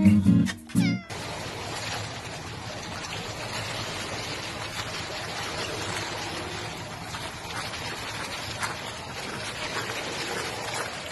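Steady water noise in a swimming pool, light sloshing and lapping around a small dog as it swims. It starts abruptly about a second in, after a run of short repeated pitched calls cuts off.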